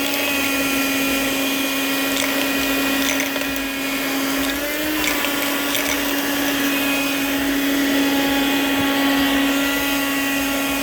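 Karoad 12-volt car vacuum cleaner running at a steady high whine while sucking up coins, with a few faint ticks as they are drawn in.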